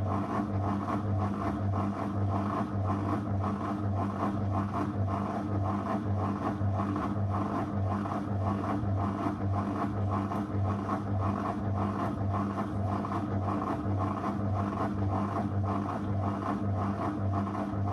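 Zanussi FL984CN washing machine running a 35° program: a steady motor hum with an even, rapid pulsing that does not change.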